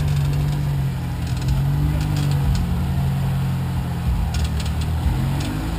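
Off-road vehicle engine running at low revs, the pitch rising and falling gently as it is fed a little throttle, with a few sharp clicks a little over four seconds in.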